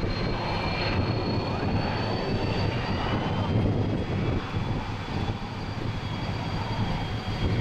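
Embraer ERJ-190's GE CF34-10E turbofan engines running: a low rumble with a steady high jet whine, one tone of which rises slightly about two to three seconds in.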